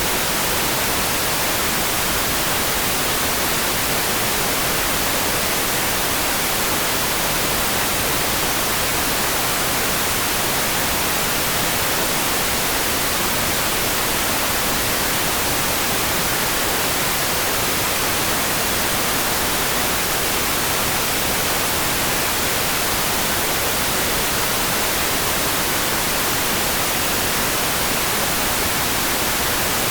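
Steady, even rain hiss, a dense wash with no separate drops, thunder or changes, like white noise.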